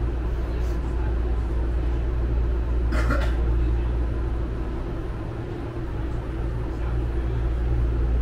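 BART train running with a steady low rumble and hum, and a brief sharper noise about three seconds in.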